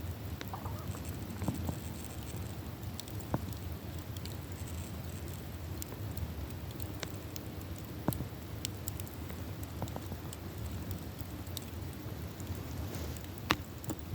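Campfire burning, the wood crackling with irregular sharp pops over a low, steady rumble. There is a louder pop about eight seconds in and another near the end.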